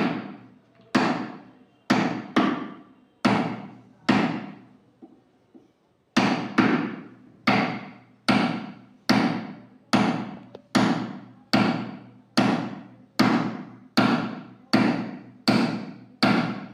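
Hammer striking a wood chisel, chopping out a hinge recess in wood: sharp repeated blows, each with a short ring. There is a brief pause about four seconds in, then the blows come steadily at a little more than one a second.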